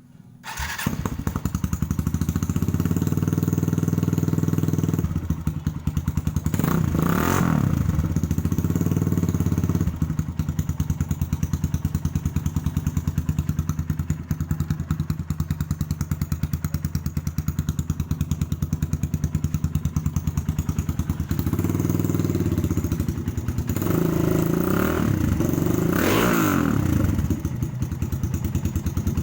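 Motorcycle fitted with a Norifumi aftermarket exhaust, started about half a second in and then idling with a rapid, even exhaust beat. It is revved several times, with a sharp blip about seven seconds in and a run of revs near the end. The exhaust has a tinny, can-like tone.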